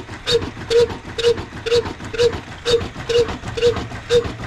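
Old Ruston-type oil diesel engine running with a slow, even beat of about two firing thuds a second, each with a sharp click.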